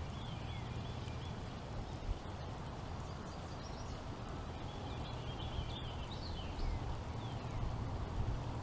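Outdoor ambience: birds chirping, with short falling whistles, heaviest in the second half, over a steady low rumble and hiss.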